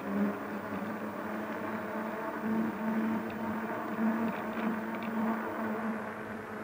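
Steady motor hum with a low pitched drone and street noise during an electric bike ride.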